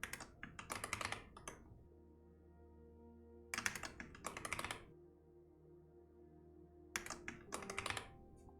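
Computer keyboard typing in three short bursts of rapid keystrokes, with pauses between them, over soft background music.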